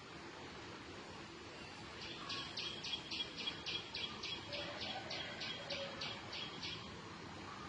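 A bird chirping in a quick, even series of high chirps, about four a second, starting about two seconds in and stopping near the end, over a faint steady background hiss.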